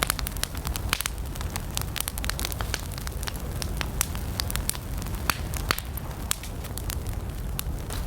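Wood campfire burning, with frequent sharp, irregular crackles and pops over a low steady rumble of the flames.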